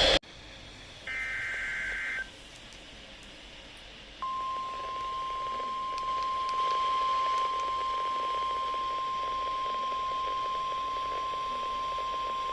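NOAA Weather Radio alert signals: a short burst of warbling SAME digital data tones about a second in, then from about four seconds in the steady single-pitch 1050 Hz warning alarm tone, which signals that a new warning message is about to be read.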